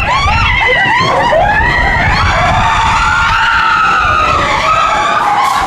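Mine-train roller coaster running on its track: a steady rumble under high squealing tones that glide up and down and hold for several seconds, the wheels squealing through the curves.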